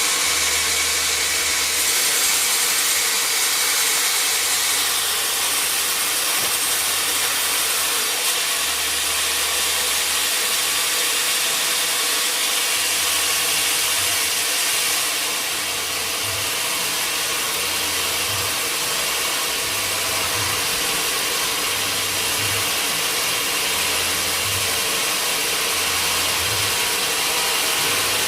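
Sawmill machinery running steadily, a constant loud mechanical noise with a faint steady hum.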